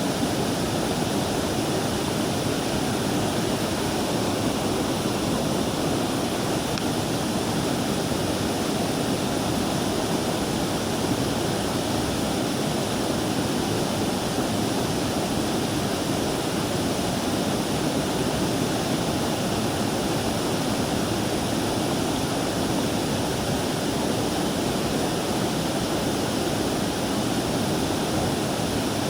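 Mountain stream water rushing steadily, an even, unbroken hiss of flowing water.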